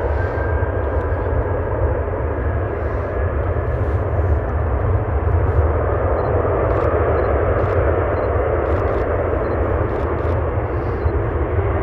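Jet airliner's engines running as it passes: a steady, loud rumble that swells about five or six seconds in, with a faint high whine that fades out in the first couple of seconds.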